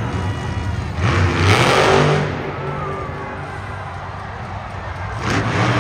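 Monster truck engine revving, swelling loudly about a second in, dying back to a lower drone, then rising again near the end.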